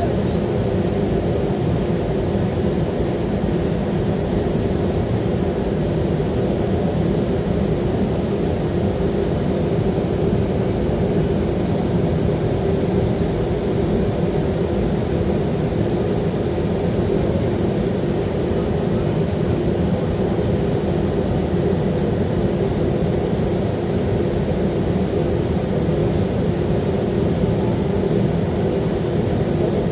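Steady cabin noise inside a Boeing 737-300 airliner: the hum of its CFM56 engines and the rush of air, with a few steady tones over a low rumble. The noise stays even, with no change in level or pitch.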